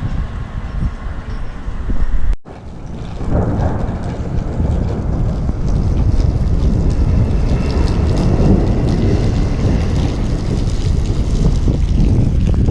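Heavy thunderstorm rain and strong wind rushing over the microphone, a dense low rumbling noise. It cuts out for an instant about two seconds in, then carries on steadily.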